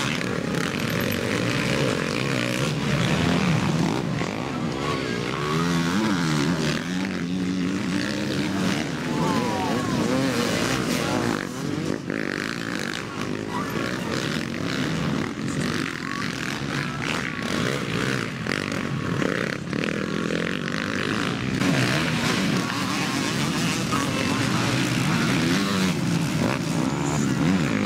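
Motocross bikes racing on a dirt track, their engines revving up and down as they accelerate and shift.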